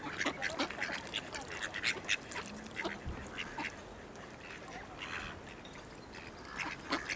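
A flock of ducks quacking in many short calls as they crowd and squabble over thrown food, the calls thickest in the first few seconds and thinning out after.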